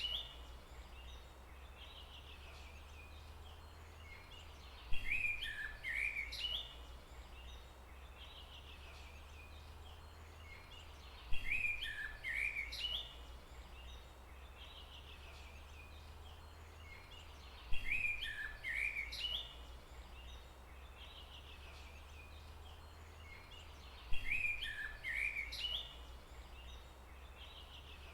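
Forest ambience: a songbird's short chirping phrase comes back four times, about every six seconds, over a steady low rumble.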